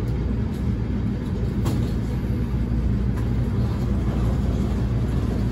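Cabin sound of a JR East E231 series 1000 electric commuter train moving off slowly from a station: a steady low rumble with a few faint clicks.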